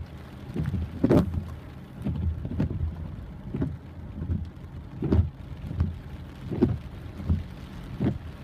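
Heavy rain, with dull low thumps every second or so.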